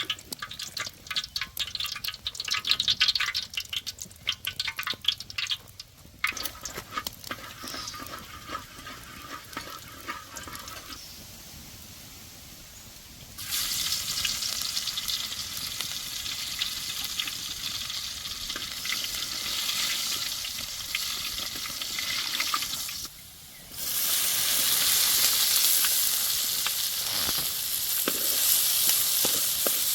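Food sizzling as it cooks, a steady high hiss that starts about a third of the way in, breaks off briefly and comes back louder. Before it there is irregular scraping and clattering.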